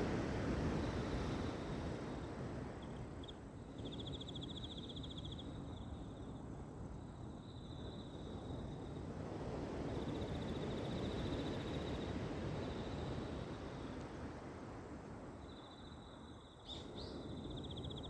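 Insects trilling in bouts of one to three seconds, a fast pulsed high chirring that stops and starts, over a steady low outdoor noise that is louder at the start. A couple of short sharp chirps come near the end.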